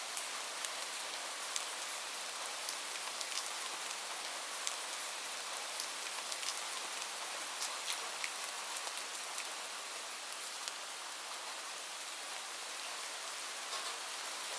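Steady rain falling, a continuous hiss with scattered individual drops ticking sharply on a hard surface.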